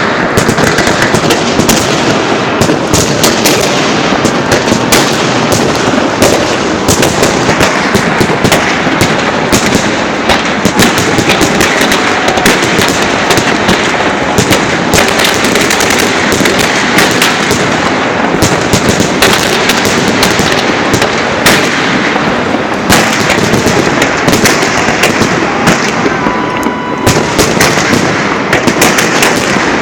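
Fireworks salute launchers firing a continuous barrage: a dense, rapid run of loud bangs and crackling shell bursts with no pauses.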